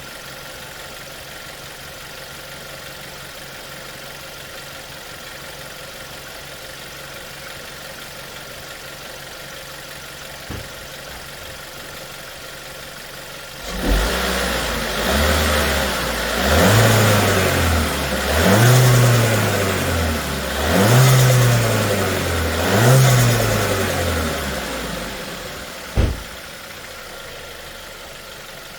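VW Golf Touran 1.4 TSI petrol engine idling steadily, then blipped four times in a row, each rev rising and falling about two seconds apart, before settling back to idle. A single sharp knock sounds near the end.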